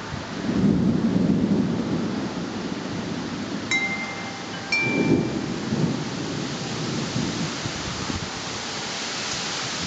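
Storm: steady rain hiss, with a low rumble of thunder or wind starting about a second in and another around five seconds. Wind chimes ring a few clear notes around four to five seconds.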